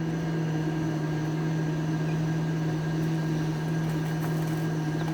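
A person humming one long, steady low note.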